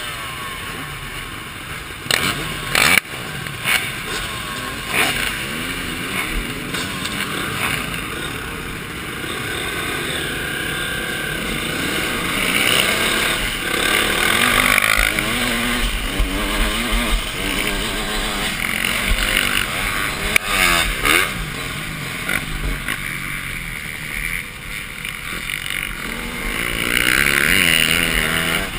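Motocross bike engine revving up and falling back again and again as it is ridden around the track, heard through a helmet-mounted camera with wind rushing over the microphone. Sharp knocks break in about two to three seconds in and again near the twenty-second mark.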